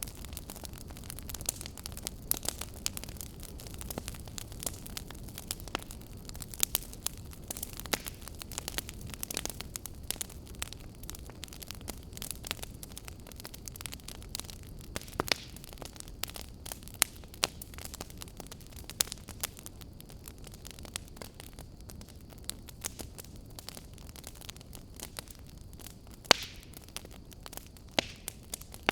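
Fire crackling: irregular sharp pops and snaps, a few much louder than the rest, over a steady low rumble.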